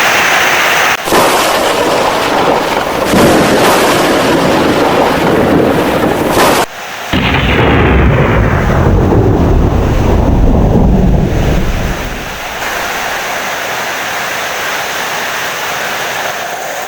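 Heavy rain with thunder: a dense, loud wash of rain noise, then a low rumble of thunder starting about halfway through that rolls and dies away over several seconds, leaving steadier, quieter rain.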